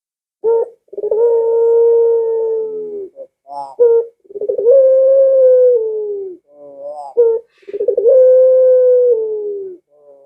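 Puter pelung dove cooing: three phrases, each a short stuttering lead-in followed by one long drawn-out coo that holds steady and sinks in pitch at its end.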